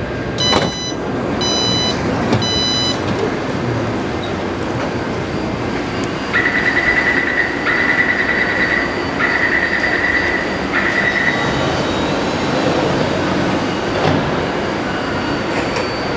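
Taipei Metro C381 train at a station: three short chimes, then four long, even high-pitched beeps of a door-closing warning over the train's steady hum.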